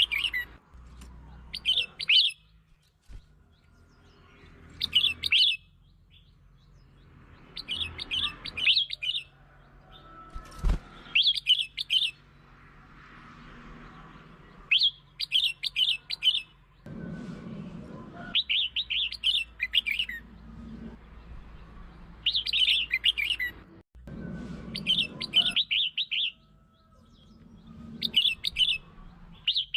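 Red-whiskered bulbul singing: short whistled song phrases repeated every two or three seconds, the kind of song played to lure and excite other bulbuls.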